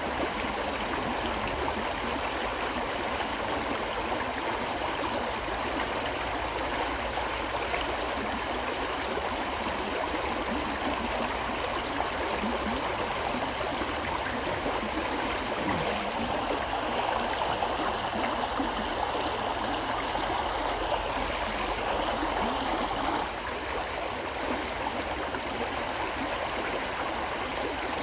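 River flowing: a steady, even rush of running water, dropping slightly in level about two-thirds of the way through.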